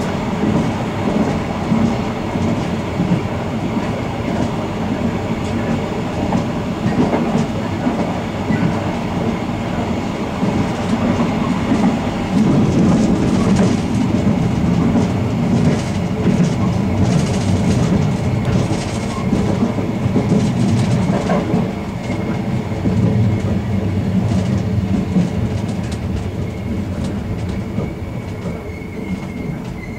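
Ganz-Mavag electric multiple unit running on the rails, heard from inside the train: a steady rumble with wheels clicking over the track. Near the end it grows quieter and a thin, steady high squeal comes in.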